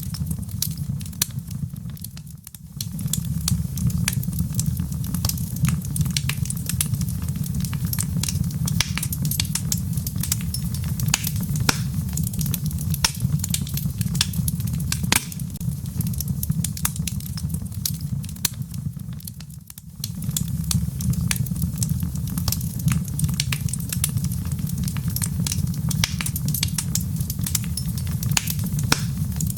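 Wood fire burning in a fireplace: a steady low rumble of flames with many sharp crackles and pops, dropping away briefly twice, once about two seconds in and again near twenty seconds.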